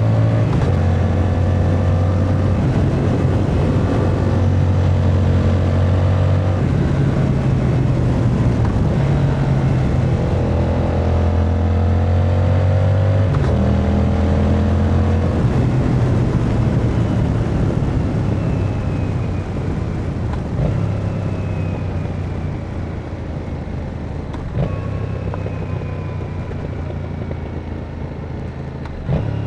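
Yamaha MT-07's 689 cc parallel-twin engine being ridden at speed, its pitch stepping up and down with gear changes. It runs quieter and lighter in the second half.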